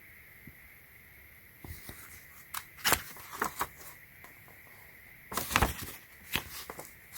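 Unboxing packaging being handled: rustling and sharp clicks and knocks in two bursts, about two seconds in and again around five and a half seconds in.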